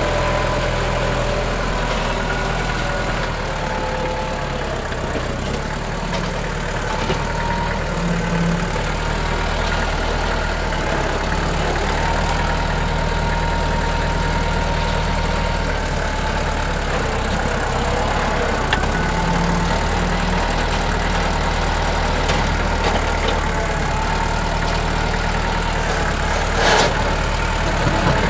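NorTrac 35XT tractor engine running steadily, with one sharp knock near the end.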